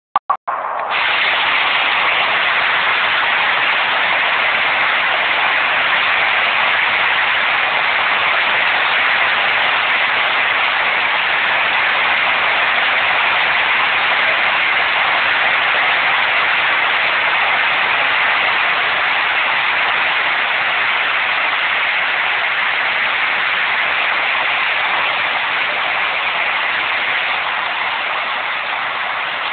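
Heavy rain pouring down in a steady, loud hiss. The sound cuts out a few times in the first second before it settles, and eases slightly near the end.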